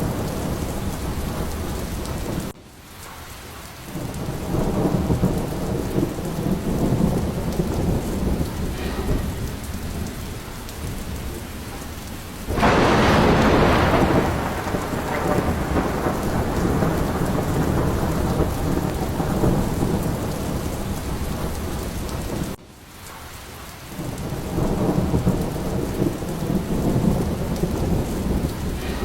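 Steady heavy rain with rolling thunder rumbles, and a loud, sharp thunderclap about halfway through. Twice, about twenty seconds apart, the sound drops away abruptly for a moment before the rain and rumble build back.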